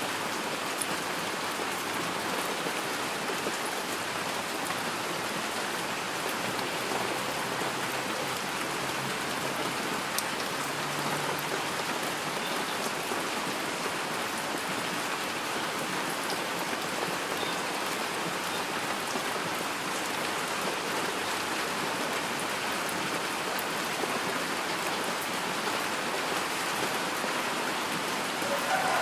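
Heavy rain falling steadily, an even hiss of many drops that holds level throughout, with no thunder.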